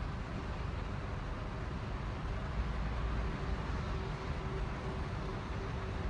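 Steady low rumble of city street traffic and urban background noise.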